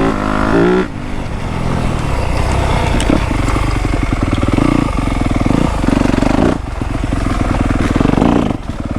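Yamaha YZ250F's four-stroke single-cylinder engine under riding: it revs up in the first second, drops as the throttle is cut, then runs on under throttle with several short chops, the last near the end.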